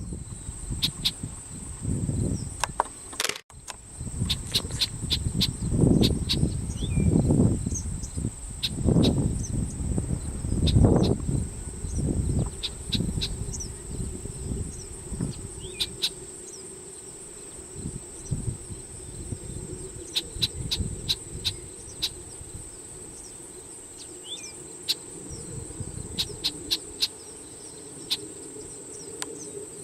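Crickets or other insects droning steadily at one high, even pitch, with many short ticks and a few faint chirps scattered through. Wind rumbles on the microphone in gusts through the first half, and a low steady hum comes in about halfway.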